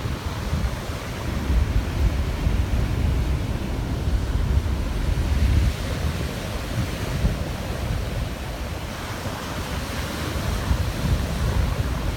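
Wind buffeting the microphone in gusts over the steady wash of surf.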